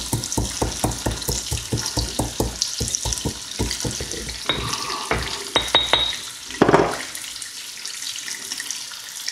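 Peppercorns being crushed with rapid, even pounding strokes, about four a second, stopping after a louder knock about seven seconds in. Food frying in the pan under it.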